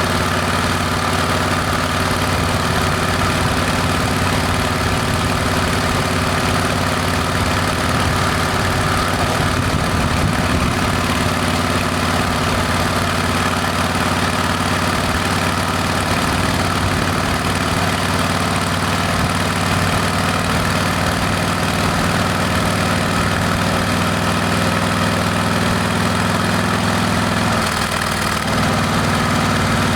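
Harley-Davidson Heritage Classic's Milwaukee-Eight V-twin running at a steady speed through Rinehart aftermarket exhaust pipes, a deep, even note. The note drops out briefly and comes back slightly changed about two seconds before the end.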